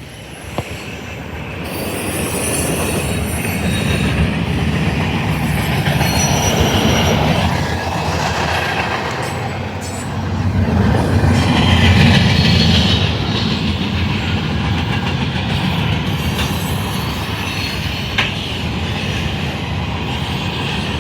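CSX freight train rolling past close by: a loud, steady rumble of railcars with the clacking of steel wheels over the rail joints, swelling over the first couple of seconds.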